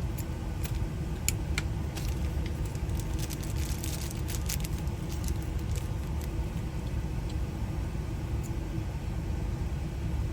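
Scattered small clicks and rattles from handling a lock and its package, mostly in the first half, over a steady low rumble.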